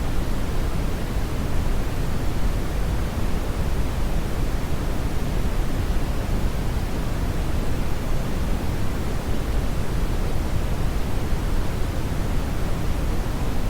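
Brown noise: a steady, loud rush of synthetic noise weighted heavily to the low end, with no change or events.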